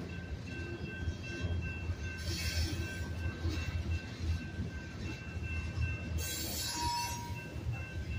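Freight cars of a slow-moving train rolling over a grade crossing with a steady low rumble, while the crossing signal's bell rings steadily. The wheels give two brief high squeals, about two and six seconds in, with a short squeal tone near seven seconds.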